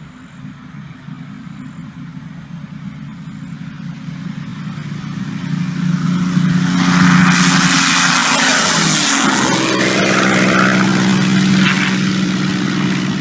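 Airplane taking off close by: the engine noise builds steadily and is loudest from about seven seconds in. Its tone sweeps down and back up as the plane passes.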